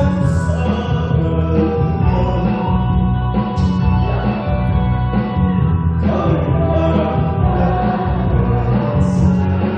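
A song with a steady, repeating bass line and a voice singing the melody.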